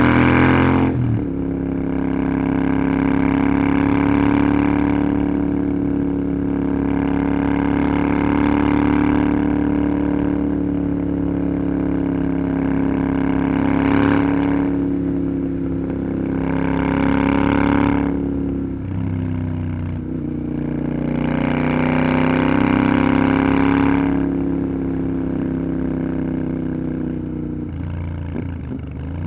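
Parallel-twin motorcycle engine running under way, its note stepping with gear changes about a second in, about two-thirds through and near the end. Wind rush rises and falls over it.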